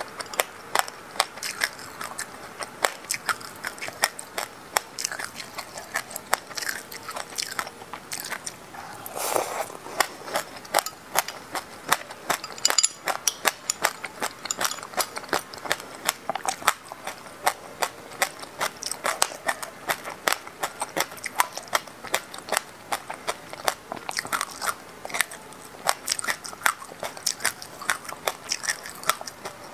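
Close-miked chewing of a mouthful of sesame seeds in passion fruit juice: a dense, continuous run of small crisp crunches and clicks.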